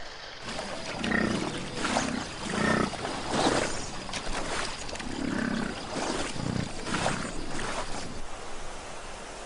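Repeated growls and snarls from wolves confronting a grizzly bear: about eight short, rough calls spread over several seconds, then quieter.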